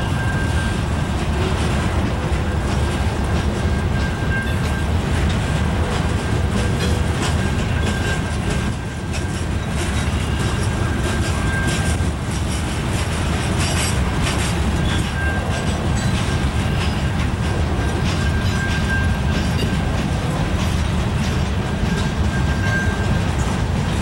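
Freight train of boxcars and hopper cars rolling steadily past: a continuous rumble of steel wheels on rail with clickety-clack as the wheels cross the rail joints and crossing. A thin high squeal comes and goes over it.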